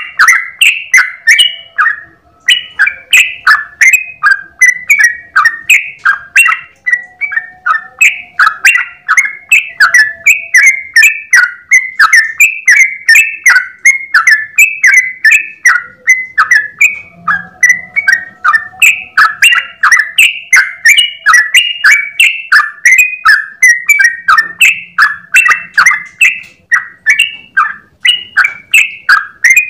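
Yellow-vented bulbul singing a long unbroken run of quick, bubbly chirping notes, several a second, in the rapid continuous style bird keepers call 'ropel'.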